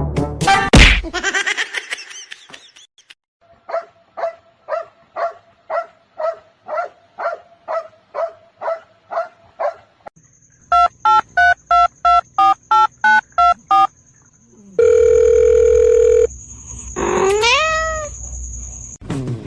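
A run of repeated pitched beeps, about two a second, then a faster run of harsh beeps, a steady held tone, and a rising pitched squeal near the end, like telephone tones.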